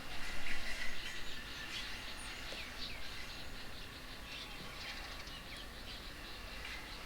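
Wild birds chirping and calling, many short chirps and a few quick sweeps over steady background hiss, busiest in the first second or so.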